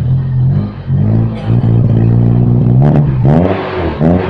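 Toyota Kijang Grand Extra's engine running through its exhaust at a steady idle, then revved in two short blips about three seconds in and near the end, the pitch rising and falling each time.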